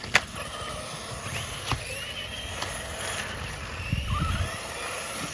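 Electric motors of radio-controlled cars whining, rising and falling in pitch as the cars speed up and slow down. A sharp knock comes just after the start and another a little under two seconds in.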